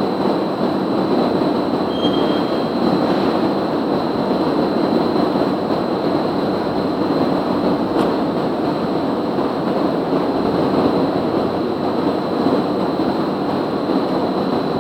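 Plastic corrugated pipe extrusion line running: steady mechanical clatter with a constant high whine.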